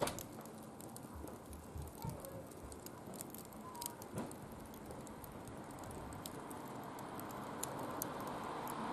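Small wood fire in a barbecue grill crackling faintly, with scattered sharp pops over a soft hiss that grows louder near the end.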